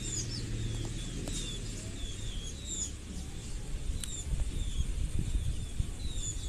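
Small birds chirping: short high chirps that drop in pitch, repeated irregularly about once or twice a second, over a low background rumble.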